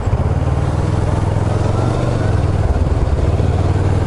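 Kawasaki ER-6n's parallel-twin engine running steadily under an even hiss.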